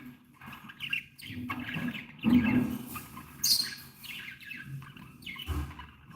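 Several pet budgerigars chirping and chattering in short, irregular calls, with louder calls about two and three and a half seconds in.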